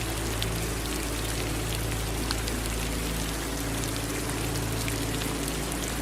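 Steady rain falling, with single drops ticking now and then over an even hiss, and a low steady hum underneath.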